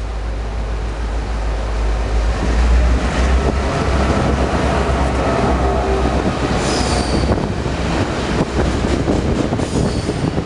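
Freight train hauled by EMD diesel locomotives running through a station without stopping: a heavy low rumble that grows louder over the first few seconds. The wheels squeal briefly twice, once about two thirds of the way through and again near the end.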